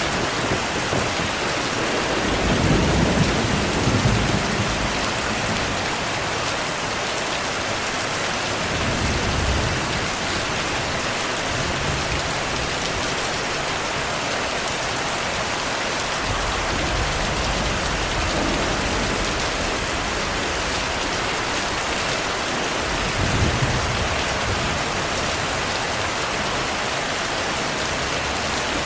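Steady heavy rain with low rolls of distant thunder swelling and fading several times, the strongest rumble a few seconds in and another near 23 seconds.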